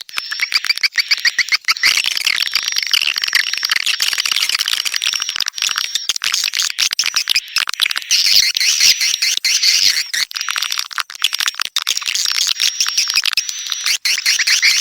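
Swiftlet calls: a dense, continuous stream of rapid twittering chirps and clicking trills, a recorded swiftlet lure call.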